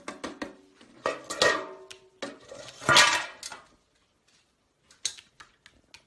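A magpie's beak tapping and prying at the lid of a metal cookie tin: a run of sharp clicks and ringing knocks, then a louder clattering ring about three seconds in as the lid comes off. After that there are only a couple of faint clicks.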